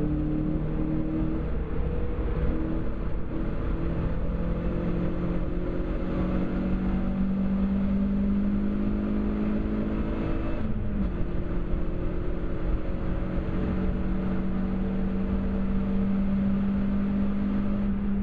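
Seat Cordoba Cupra's 2.0-litre 16-valve four-cylinder engine accelerating hard, its revs climbing slowly in gear, then a quick upshift about eleven seconds in, after which it pulls steadily at high revs again.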